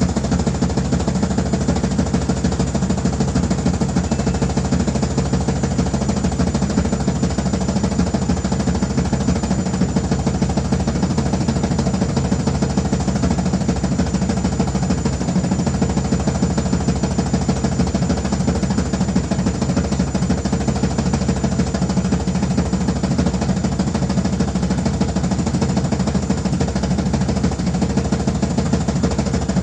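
Washing machine running loudly and steadily, with a fast, even rattling vibration over a constant hum.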